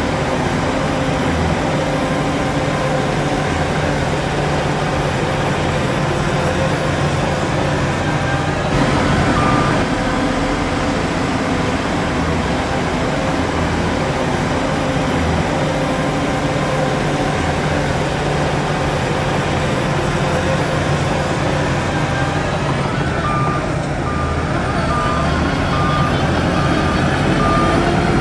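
Heavy diesel earthmoving machinery, bulldozer and dump trucks, running steadily at a work site. Late on, a truck's reversing alarm starts beeping at an even pace.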